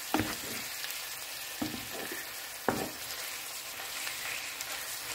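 Minced pork, onion and garlic sizzling in hot oil in a frying pan, stirred with a wooden spatula, with a few short knocks of the spatula against the pan.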